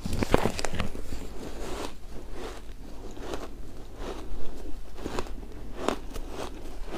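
Close-up chewing and crunching of frozen shaved ice, a run of irregular crisp crunches, densest in the first second.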